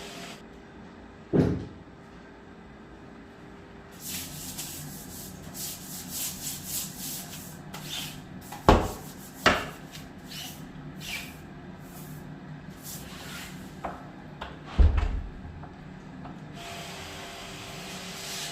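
Household cleaning sounds: quick rubbing or scrubbing strokes for several seconds in the middle, with a few sharp knocks of objects or wooden doors being handled. One knock comes about a second and a half in, two come close together around the middle, and one comes near the end.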